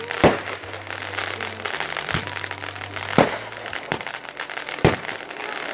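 Fireworks going off: about five loud bangs a second or so apart, with crackling between them.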